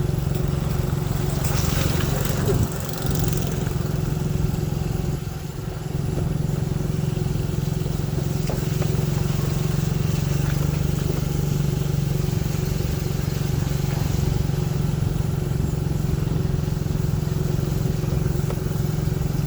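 Motorcycle engine running steadily, with a brief dip in loudness about three seconds in and again around five to six seconds in.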